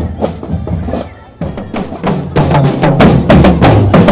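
Marching drum band playing a quick, rhythmic drum beat. It is quieter at first, then comes in much louder about a second and a half in.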